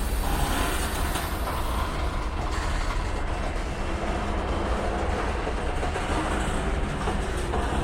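Freight train cars rolling past on the rails: a steady rumble of wheels and cars.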